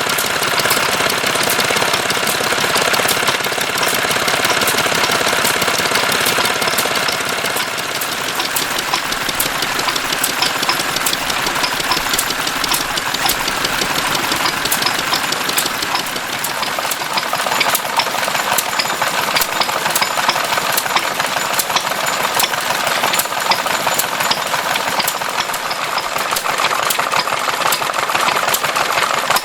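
Vintage stationary engine running steadily, with a regular sharp tick about one and a half times a second over a constant mechanical clatter.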